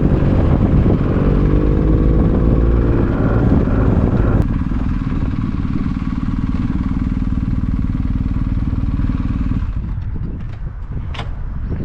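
BMW R 1250 GS boxer-twin engine through an Akrapovic exhaust. It pulls with a slowly rising pitch, then about four seconds in drops suddenly to a steady low rumble. Near the end the rumble fades away and a few sharp clicks are heard.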